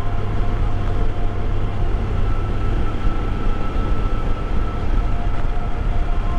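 Motorcycle engine running at a steady cruising pace, with wind rushing over the microphone.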